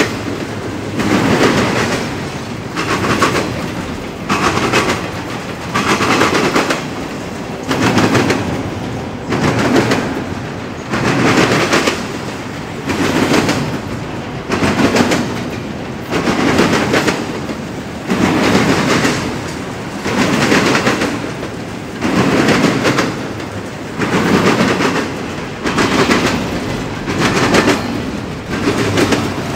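Freight train wheels pounding over a railroad diamond crossing at speed. Each car passing gives a cluster of loud clacks, repeating about every two seconds over a steady rolling rumble.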